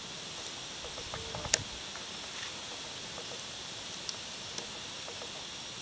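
Steady outdoor background hiss, with one sharp click about one and a half seconds in and a couple of faint ticks later.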